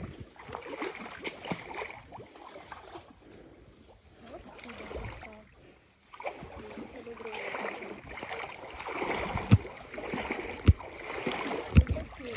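Splashing and sloshing of water in a shallow stream, with a few sharp knocks in the second half.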